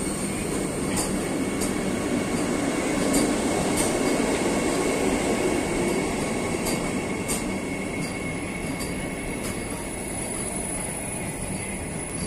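Vande Bharat Express electric trainset rolling slowly past as it pulls out of the station: a steady rumble of wheels on rail, with light clicks every second or so and a faint steady high whine.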